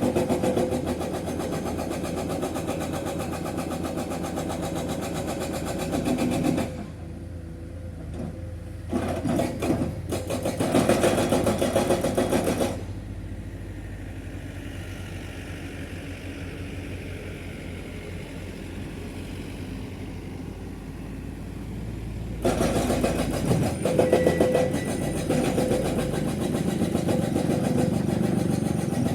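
Excavator's hydraulic breaker hammering limestone in rapid blows over its running diesel engine. It goes in bursts, with a pause of about ten seconds in the middle where only the engine is heard, then starts again.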